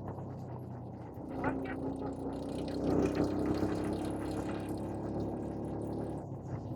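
Quad bike (ATV) engine running, its pitch rising a little about a second and a half in and holding before it eases near the end.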